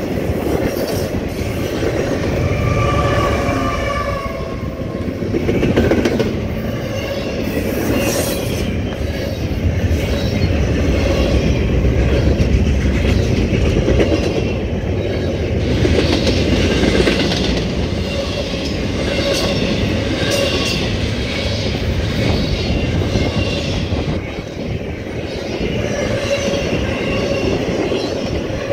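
CSX double-stack container train's cars rolling past, steel wheels rumbling and clacking over the rail joints, with a thin wavering wheel squeal coming and going.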